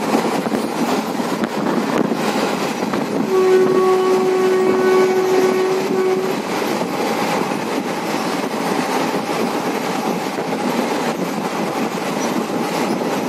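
Express train running over a river bridge, heard from a coach window: a steady rumble of wheels on rails with faint clacking. About three seconds in, the locomotive horn sounds one steady note for about three seconds.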